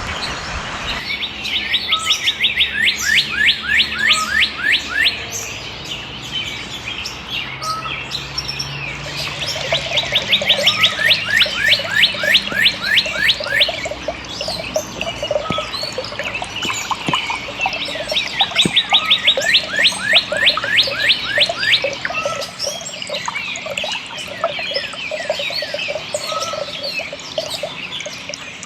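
Wild songbirds singing: one bird repeats a fast trill of down-sliding notes, each trill about four seconds long, three times, while other birds chirp around it.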